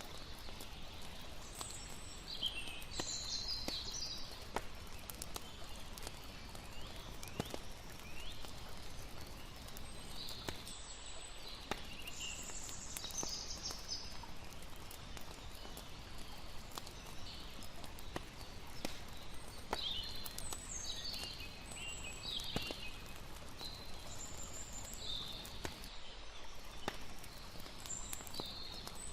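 Layered night-time nature ambience: a steady hiss of lapping water and campfire, with scattered sharp crackles from the fire and repeated high chirping calls coming and going.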